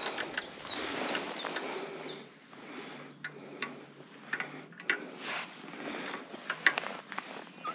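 A small bird chirping, several short chirps in the first two seconds, over a light rustling haze with scattered clicks.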